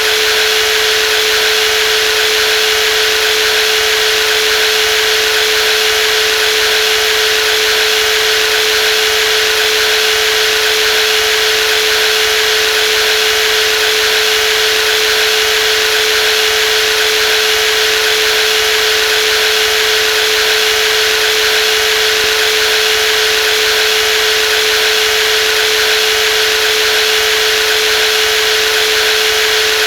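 Brushless jigsaw running steadily, its motor giving a constant whine over a dense buzzing hiss, with no change in speed.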